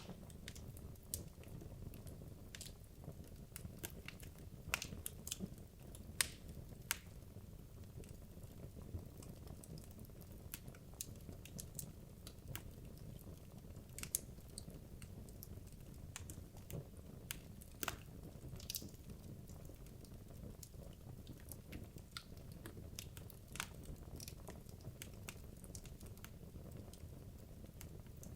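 Wood logs burning in a fireplace: irregular crackles and sharp pops scattered over a low, steady rumble of the fire, with a few louder snaps.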